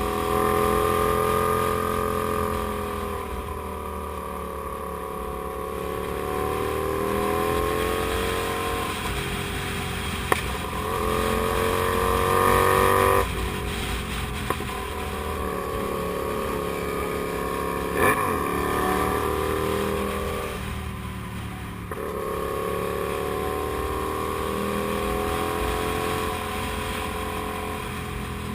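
Kasinski Comet GTR250 motorcycle's 250 cc V-twin engine running under way, its note rising and falling with the throttle and dropping off sharply twice, over a steady low rumble. Two short sharp clicks, about ten and eighteen seconds in.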